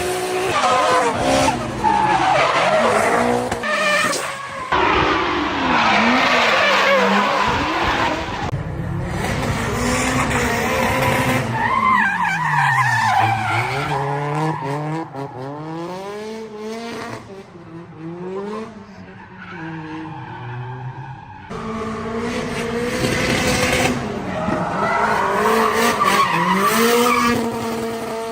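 Car engines revving up and down with tyres skidding and squealing. The sound changes abruptly a few times, as one short clip gives way to the next.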